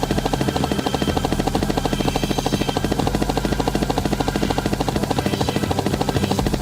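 A steady, fast mechanical pulsing of about eighteen beats a second, with a low hum under it: a cartoon vehicle's motor sound effect.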